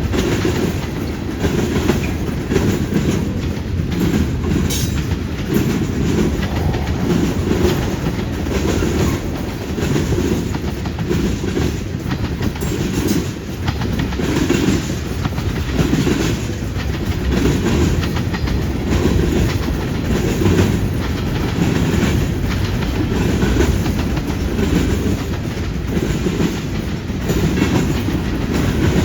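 CN freight train rolling steadily past: a continuous low rumble of the cars with a running clickety-clack of wheels over rail joints.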